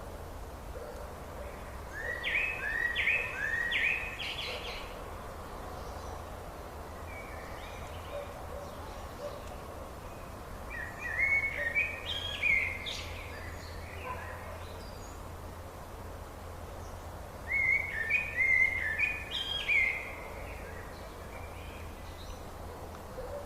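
A songbird singing three short phrases of quickly repeated notes, several seconds apart, over a steady low hum.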